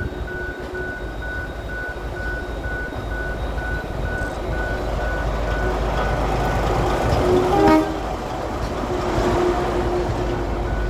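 Former Emu Bay Railway 11 class diesel locomotive running and growing gradually louder as it draws near, with one short horn blast about seven and a half seconds in.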